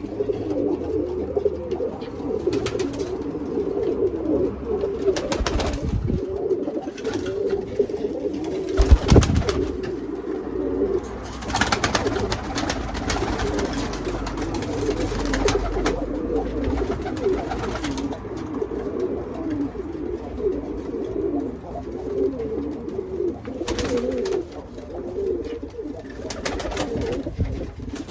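Many pigeons cooing continuously, overlapping, with a thump about nine seconds in and a few other short scuffling sounds.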